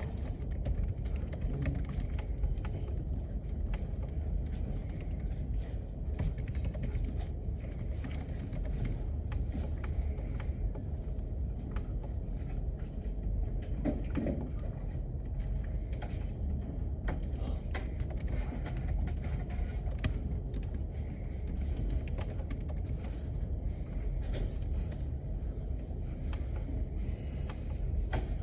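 Typing on a computer keyboard: irregular key clicks over a steady low background rumble.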